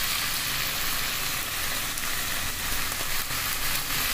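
Saucy chicken mince frying in a non-stick pan: a steady sizzle as the bhuna stage finishes.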